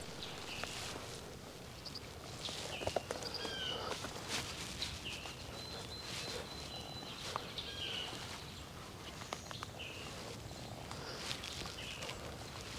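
Footsteps crunching through leaf litter, with songbirds calling short chirps about once a second and one longer thin whistle about six seconds in.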